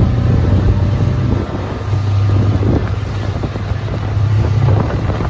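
Towing motorboat's engine running with a steady low drone, and wind buffeting the microphone as the banana boat is pulled across the water.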